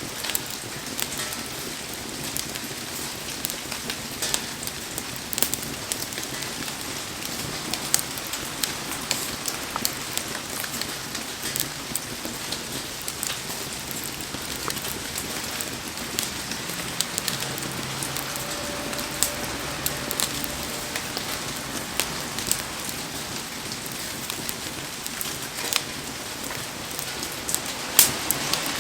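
Heavy rain falling in a steady hiss over a wood campfire, with sharp crackles and pops scattered throughout and a louder pop near the end.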